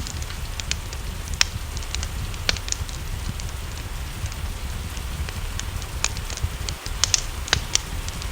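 Wood fire crackling, with irregular sharp pops over a steady hiss of rain and a low rumble; the pops bunch together near the end.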